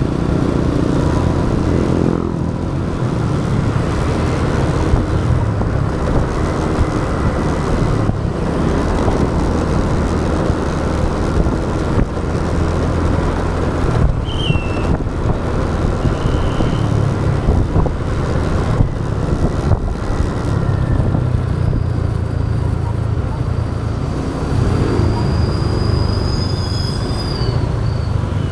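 Motorbike engine running with road and wind noise at riding speed, the engine note changing pitch with the throttle near the start and again near the end. A thin high whine sounds in the last few seconds.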